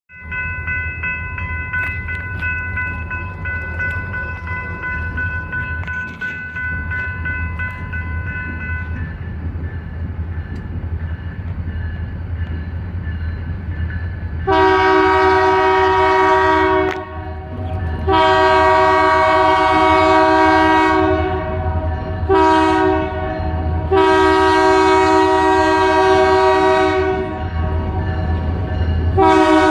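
EMD SD40-2 diesel locomotives running with a steady low diesel rumble, then the locomotive horn sounds long, long, short, long, the standard grade-crossing signal, with another blast starting near the end.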